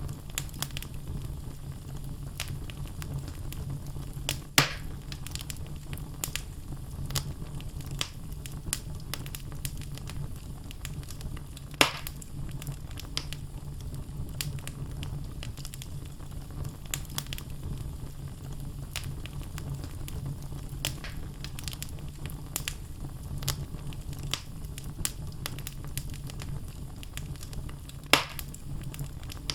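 Wood logs burning in a fireplace: a steady low rumble of flames with frequent small crackles, and three louder pops spread through.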